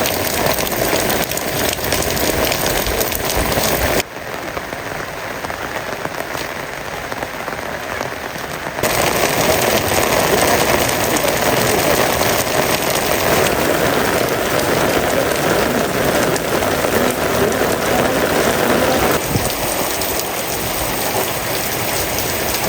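Heavy rain falling steadily, an even hiss of drops on surfaces. It drops abruptly to a softer level about four seconds in and comes back abruptly about nine seconds in.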